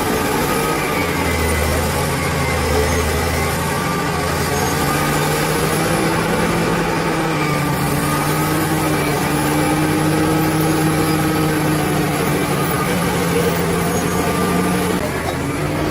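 Bulldozer's diesel engine running steadily under work, its pitch wavering slightly, with a low rumble that fades about four seconds in.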